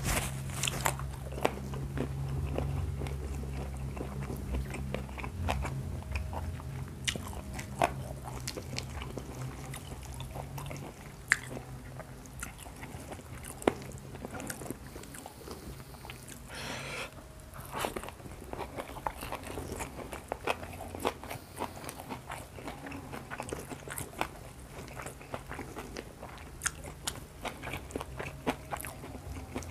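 Close-miked chewing with many sharp crunches scattered throughout, from a mouthful of deep-fried carp fried crisp down to the bones, eaten with rice. A brief hissing noise comes about halfway through.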